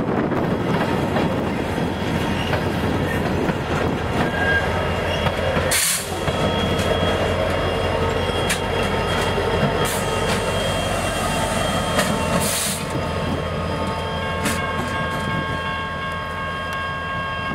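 Rear distributed-power EMD SD70MAC diesel locomotive passing close at the tail of an empty coal train: a steady diesel rumble over the clatter of wheels on rail. Several steady high-pitched tones come in during the second half.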